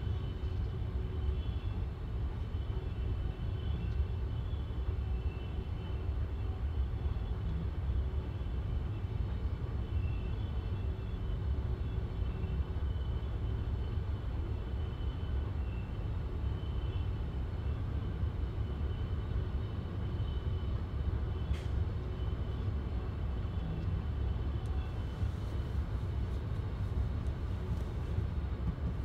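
Passenger train running at a steady speed, heard from inside the carriage at the window: a steady low rumble of wheels on rail, with faint high tones wavering above it and a single click about two-thirds of the way through.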